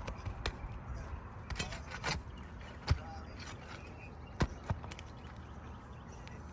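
Scattered sharp knocks and taps of hand tools working loose asphalt roof shingles during a tear-off, about six irregular strikes with the loudest about three seconds in.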